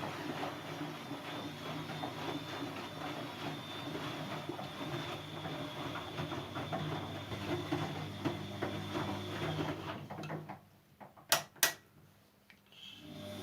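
Siemens Siwamat C10 washing machine running, its drum turning with a steady, rhythmic mechanical sound. About ten and a half seconds in the motor stops, two sharp clicks follow, and the drum starts turning again near the end: the pause between drum turns in a wash cycle.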